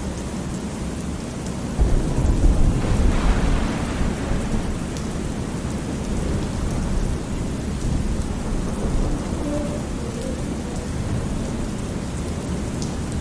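Thunderstorm: steady rain with a roll of thunder rumbling up about two seconds in and fading away over the next few seconds.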